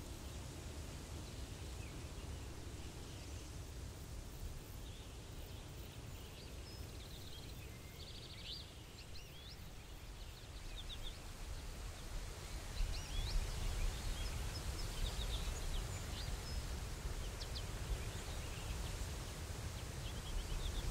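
Forest ambience: scattered short bird chirps and calls over a steady low rumble, which grows louder about halfway through.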